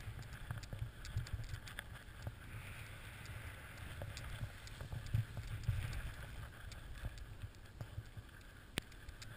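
Snowboard riding through fresh powder: a steady low rumble of wind buffeting the microphone over a soft hiss of snow, with scattered small clicks and taps throughout and one sharper click near the end.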